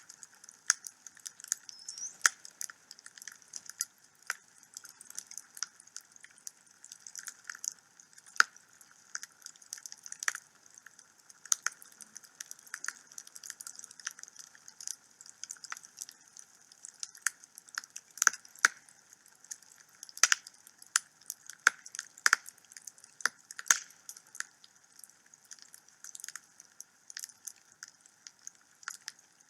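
Wood fire burning in a fireplace, crackling with frequent irregular sharp pops and snaps over a faint steady hiss.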